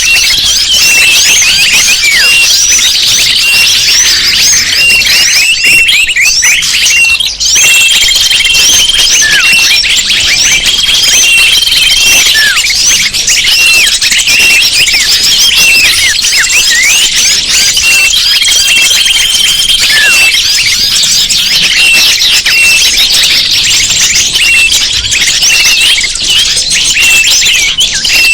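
Bird-lure recording: a loud, dense chorus of many small birds chirping and twittering at once, with a held trill of about a second now and then.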